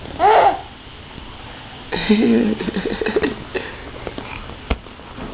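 Infant vocalizing: a short, high squeal that rises and falls just after the start, then about a second of lower babbling voice sounds. A few small clicks follow, with one sharp tap near the end.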